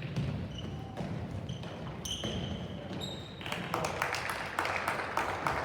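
Shoes squeaking and a ball thudding on a hard court floor during a team game, with a stretch of rapid clatter and scuffling in the second half.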